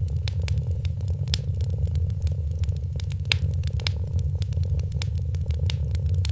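Wood fire crackling, with many scattered sharp pops, over a cat's steady low purr.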